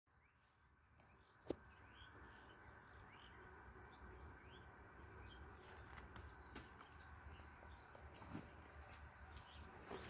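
A songbird singing faintly: a string of short rising chirps, one or two a second, over a low steady background hum. A single sharp click about one and a half seconds in.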